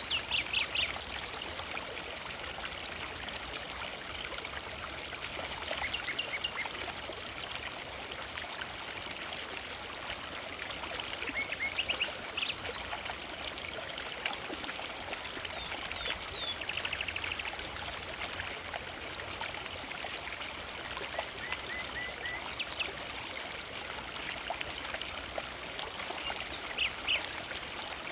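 Forest river flowing steadily over rocks and branches, a continuous rush and trickle of water. Short high chirps come and go over it now and then.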